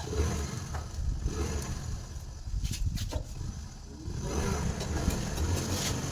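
A motor running with a low, uneven rumble.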